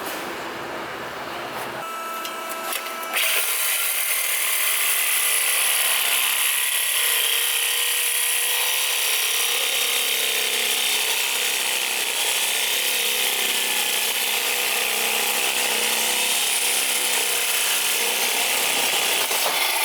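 Power tool working on exhaust pipe: it starts suddenly about three seconds in and then runs steadily under load with a high whine.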